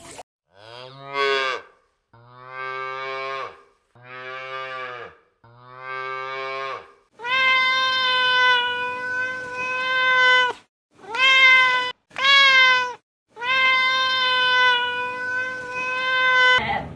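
An animal calling over and over: about eight drawn-out pitched cries with short gaps between them. The first few are shorter and bend in pitch; the later ones are held steady for up to about three seconds, with two quick calls in between.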